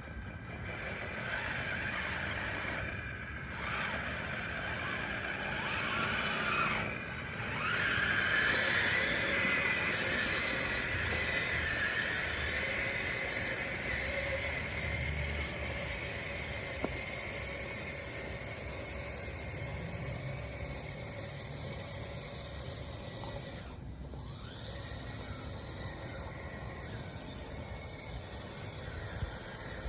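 RC bulldozer's electric motors and tracks running under load, a steady mechanical whine with hiss. It eases briefly about 3, 7 and 24 seconds in and picks up again.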